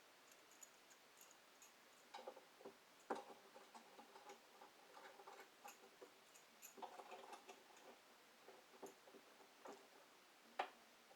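Faint, irregular clicks and light knocks over near silence, with one sharper knock near the end.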